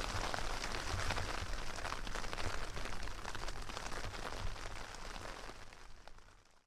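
Rain and wet snow pattering on a nylon tarp shelter: a dense hiss of fine ticks over a low rumble, fading away near the end.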